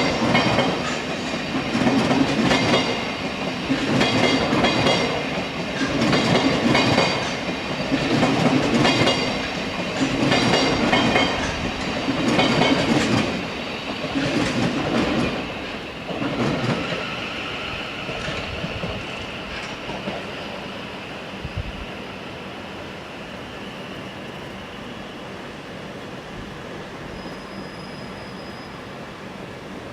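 Electric multiple-unit train running through, its wheels clattering over the rail joints in regular pulses about every two seconds, then fading to a lower steady rumble after about seventeen seconds.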